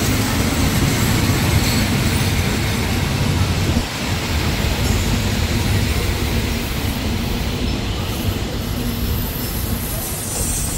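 Passenger coaches of a State Railway of Thailand train rolling slowly past at close range, their wheels running on the rails with a loud, steady noise.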